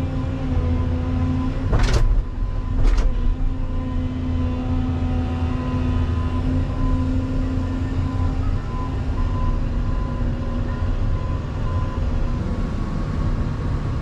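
Volvo EC220EL excavator's diesel engine running steadily under work, with two sharp knocks about two and three seconds in.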